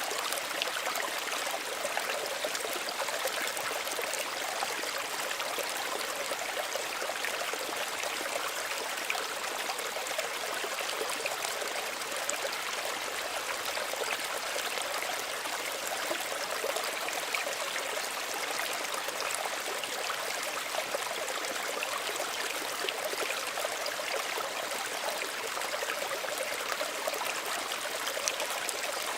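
A small stream of running water, burbling and trickling steadily over stones, with fine splashing throughout and no change in flow.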